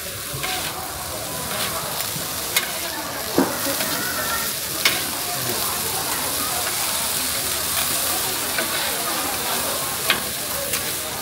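Cheesy corn frying on a hot griddle, sizzling steadily while it is stirred, with a few sharp clicks.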